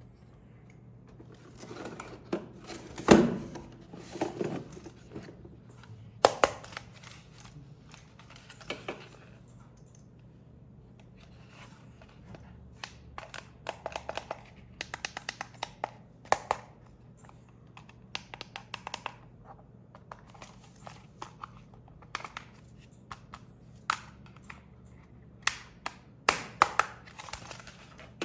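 Hands handling plastic toy parts and packaging: scattered clicks, taps and crinkling, with a loud clatter about three seconds in and runs of quick ticks later on.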